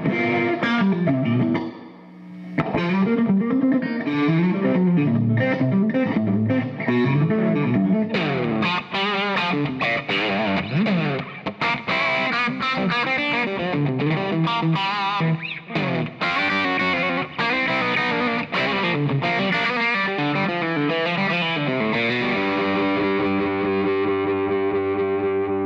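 Lentz Telecaster electric guitar played through a J. Rockett Chicken Soup overdrive pedal into a tube amp, recorded dry without room mic. Lead lines with string bends, vibrato and quick runs, settling on a chord left ringing near the end.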